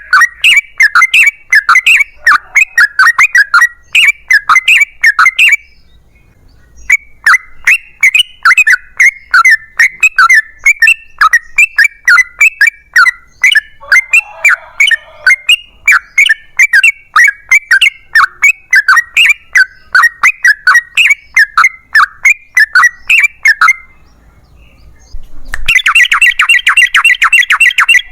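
Yellow-vented bulbul (trucukan) singing loud, rapid chattering phrases of sharp, bubbly notes, with a short break about six seconds in. Near the end it runs into a fast rolling trill.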